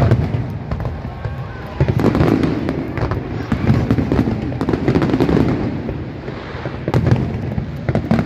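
Aerial fireworks bursting: a rapid, uneven string of bangs and crackles, with louder clusters of reports every second or two.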